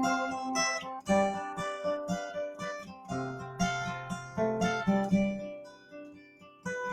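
Instrumental break in a slow folk song on acoustic guitar: single plucked notes and light strums that ring and die away. The sound fades almost out near the end, then picks up again with new notes.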